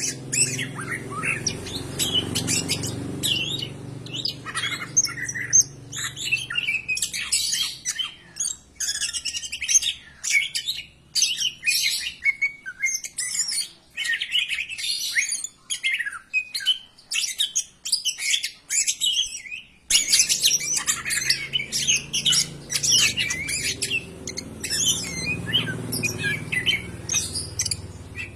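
Cucak ijo (green leafbird) song: a fast, unbroken run of sharp chirps, trills and rising and falling whistles. A low hum lies underneath at the start and again after an abrupt jump in the sound about twenty seconds in.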